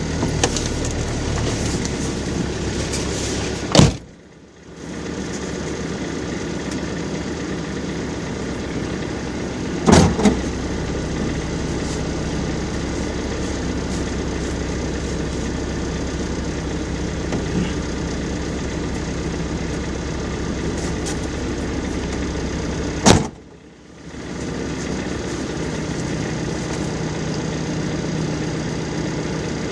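Off-road vehicle's engine running steadily. Three sharp knocks break it, and after the first and the last the sound drops out briefly.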